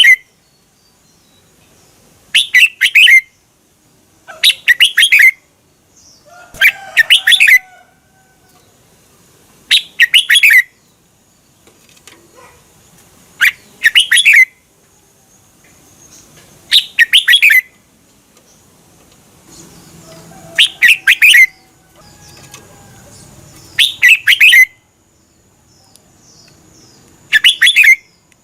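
Red-whiskered bulbul singing: short, loud phrases of quick bright notes, repeated about every three to four seconds with pauses between.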